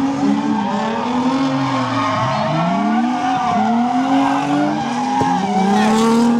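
Drift cars sliding on the track: engines revving up and down again and again over tire squeal.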